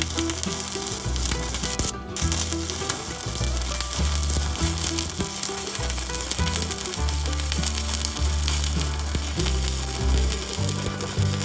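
Stick-welding arc crackling and sizzling steadily as a coated electrode burns, with a brief break in the arc about two seconds in.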